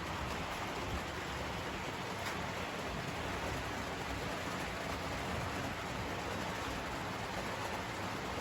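HO-scale model train running on the layout track, a steady even rolling noise without breaks.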